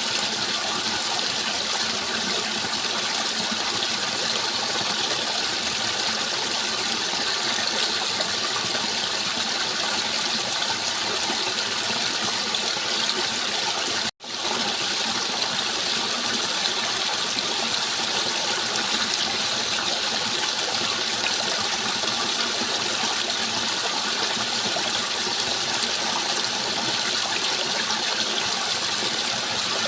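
Steady rushing flowing water, an even unbroken wash. It cuts out for an instant about halfway through and resumes at once, like a splice in a looped recording.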